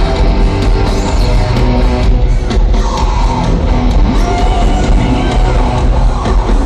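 Live rock band playing loud through an arena PA, heard from the audience: distorted electric guitars, bass and drums, with some singing. Loud and distorted, as picked up by a phone.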